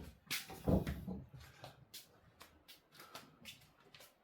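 A dull thump about half a second in, then faint irregular clicks and taps.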